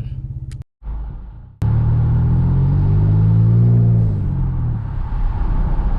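Ford F-150's 3.5-litre EcoBoost V6 running while the truck is driven, with a steady rumble whose engine note rises and then falls again as it speeds up and eases off. There is a short cut-out in the sound near the start.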